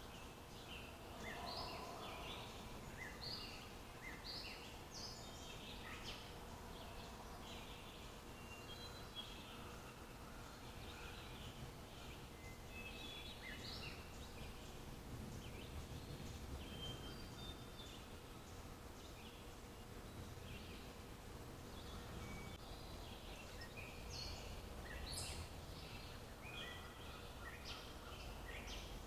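Several birds chirping and calling in short, scattered notes, faint over a low background rumble.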